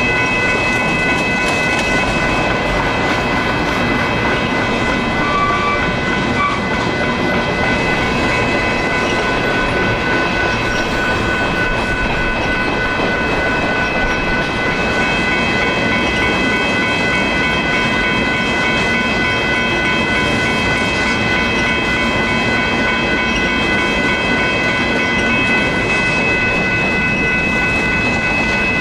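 Union Pacific freight train's covered hopper cars rolling steadily past on steel rails, the wheels running continuously over the track. Several steady high-pitched ringing tones sound over the rolling noise the whole time.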